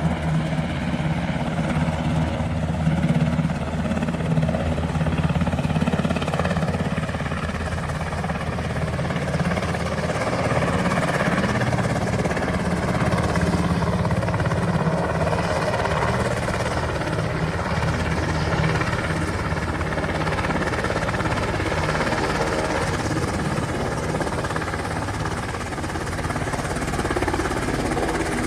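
UH-60 Black Hawk helicopter's rotors and twin turboshaft engines running close by, a steady rapid rotor thudding over the turbine noise.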